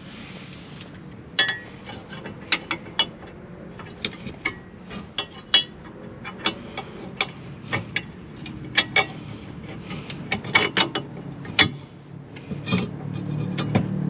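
Irregular sharp metallic clicks and clinks, about one or two a second, of hand tools working on steel suspension parts during reassembly. A low steady hum builds near the end.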